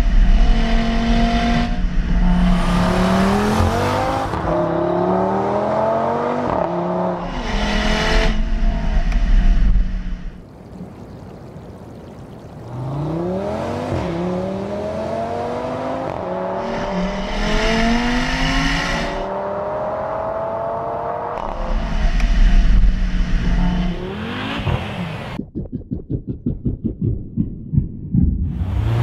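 Car engine revving hard again and again as the car drifts on ice, each rev a rising whine, with rushes of noise from the tyres spraying snow. Near the end the engine breaks into a fast stuttering pulse.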